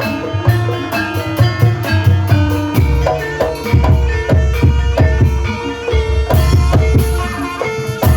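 Traditional Javanese ebeg accompaniment music: hand drums beating a busy rhythm under steady ringing tones from struck pitched instruments.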